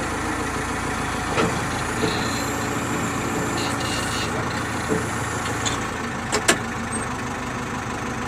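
Heavy diesel machinery running steadily, with a few short sharp knocks, the loudest a quick double knock about six and a half seconds in.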